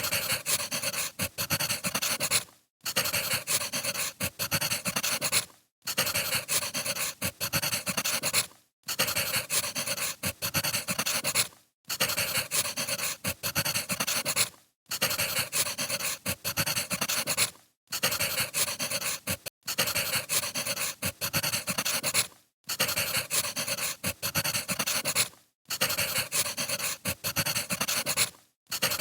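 Crackling wood fire ambience: a steady hiss dense with small pops and snaps, played as a short loop that cuts out briefly about every three seconds.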